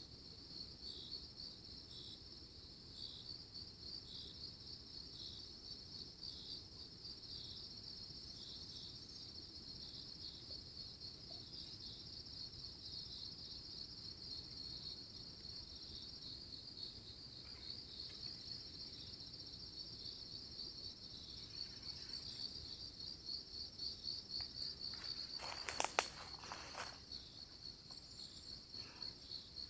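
Field insects chirping: a continuous high trill with a second insect's chirps pulsing about once a second. A brief sharp knock or crack cuts in near the end and is the loudest moment.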